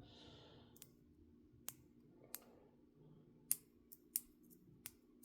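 Small plastic toy parts being handled with the fingers: about eight short, sharp clicks, irregularly spaced, the loudest about three and a half seconds in.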